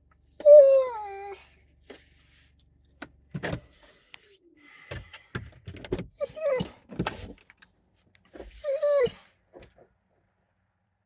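A dog whining in three drawn-out, high cries that fall in pitch, the first and loudest about half a second in, with a few knocks and rustles in between.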